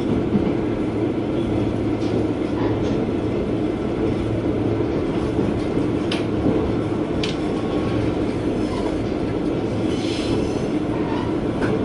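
Interior sound of a KiHa 120 diesel railcar running along the line: a steady engine and rolling hum, with a few sharp clicks from the wheels on the track. A brief high wheel squeal comes near the end.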